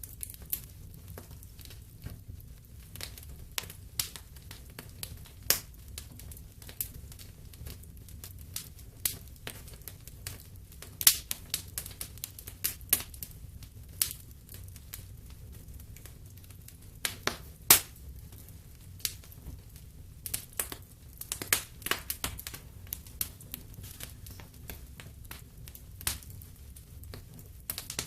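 Wood fire burning in a fireplace, crackling with irregular sharp pops, a few of them much louder, over a low steady rumble of the flames.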